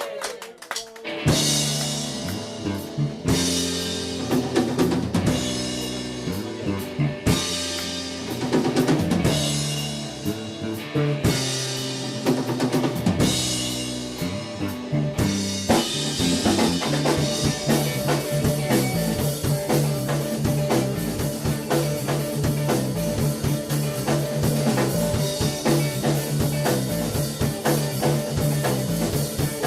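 Live band starting a song: a drum kit with bass drum and snare over a repeating bass line. About fifteen seconds in, the playing grows fuller and continuous.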